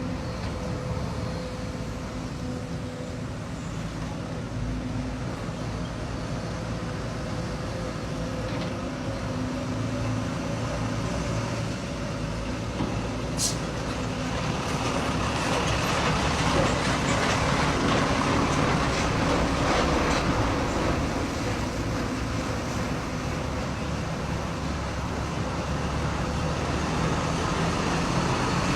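Heavy-equipment diesel engine running steadily. From about fifteen seconds in it gets louder and harsher, as under load. There is a single sharp tick about halfway through.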